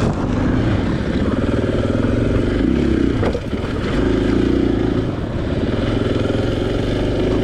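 Single-cylinder four-stroke enduro dirt bike engine running at changing throttle over rough ground, its pitch dipping briefly about three seconds in and then picking back up.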